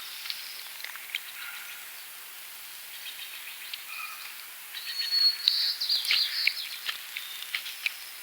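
Songbirds chirping and singing: short scattered chirps and whistles, then a louder run of high, quick song mixed with sharp ticks about five seconds in.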